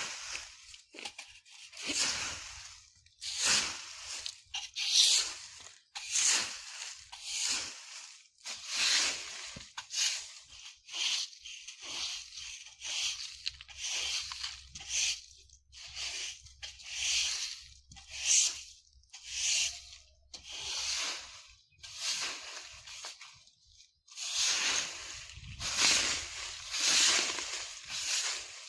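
Broom sweeping dry leaves across the ground in steady strokes, about one rustling swish a second.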